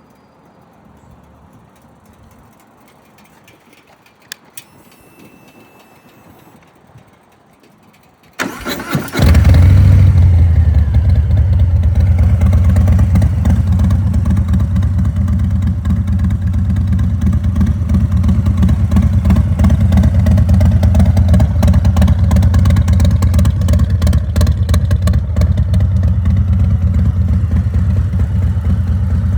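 Harley-Davidson Fat Boy 114's Milwaukee-Eight V-twin, breathing through an aftermarket Rinehart exhaust, starting up: a few faint clicks, a short crank about eight seconds in, then the engine catches and settles into a loud, steady idle.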